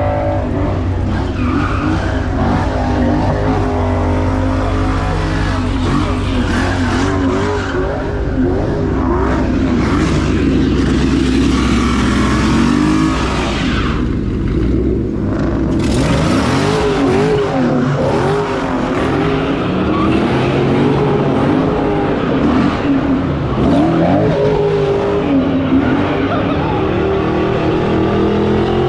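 A car doing donuts: its engine revving up and down again and again, with tyres squealing and skidding. The tyre noise drops away briefly about halfway through, then returns.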